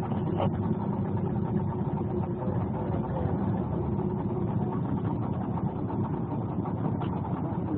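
An engine running steadily, an even low drone with no change in speed.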